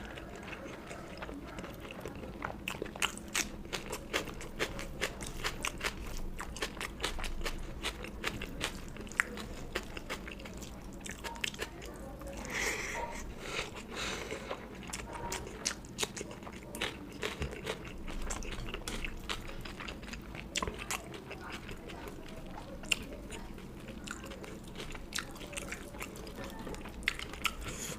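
A person eating close to the microphone: steady chewing with wet mouth clicks and frequent small crunches.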